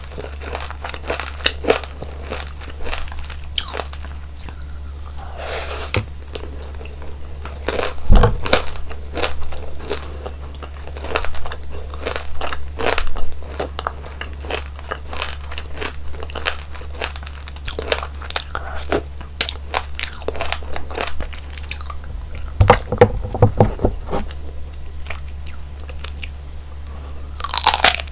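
Close-miked crunching bites and chewing of crunchy frozen desserts, a rapid irregular run of crisp cracks with louder clusters now and then. A steady low hum sits underneath.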